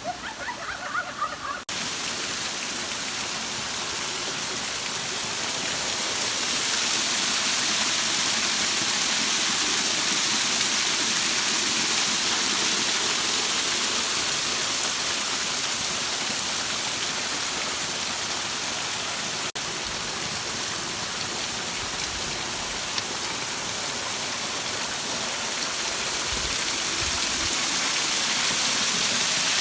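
Waterfall rushing: a steady, loud hiss of falling water. It cuts in sharply about two seconds in after a brief, quieter stretch, and breaks off for a moment about twenty seconds in.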